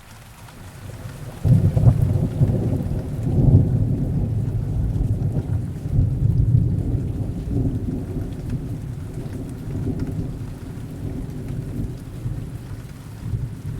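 Heavy rain falling steadily while thunder builds, breaks sharply about a second and a half in, and rolls on as a long low rumble that slowly fades, swelling again near the end.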